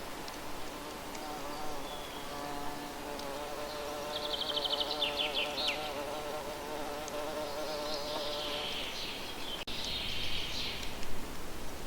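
A flying insect buzzing close by, a steady wavering hum that stops about three-quarters of the way through. Songbirds call over it: a rapid high trill with falling notes about halfway in, then a burst of high chattering near the end.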